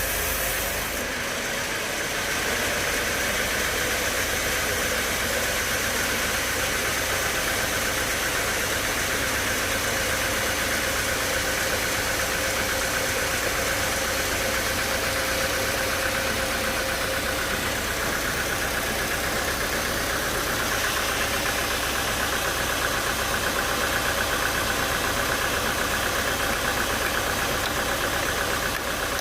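Sawmill machinery running steadily: a continuous mechanical drone with a faint steady whine. Its tone shifts slightly about a second in and again around twenty seconds in.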